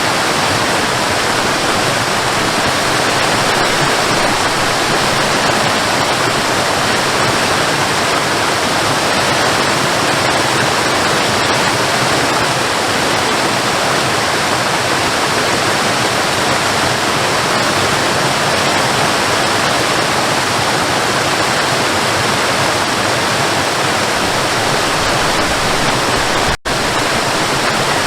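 Waterfall: falling water splashing steadily, with a brief dropout near the end.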